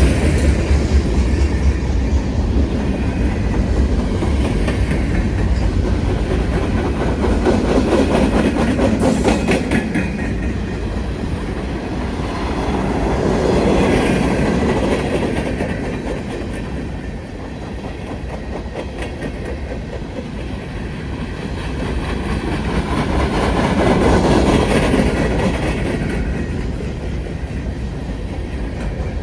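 Norfolk Southern freight train cars rolling past, wheels clicking over the rail joints in a steady rumble that swells louder several times.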